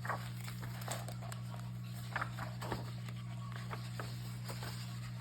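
A steady low hum with faint, scattered clicks and taps over it.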